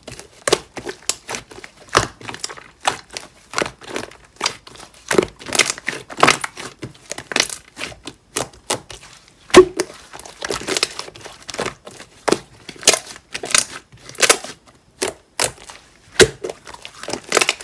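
Mint-coloured jelly-textured slime being pressed and squished by hand, giving off irregular crackling pops and clicks a few times a second, the loudest about nine and a half seconds in.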